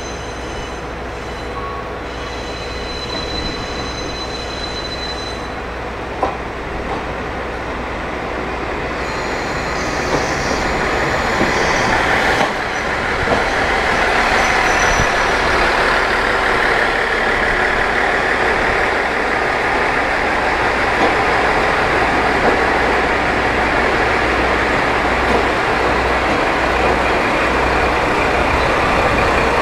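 Aizu Railway Ozatoro diesel railcar train pulling slowly into a station and passing close by. The diesel engines run under the rolling of the wheels on the rails, growing louder about ten seconds in as the cars go by, with a sharp knock about six seconds in.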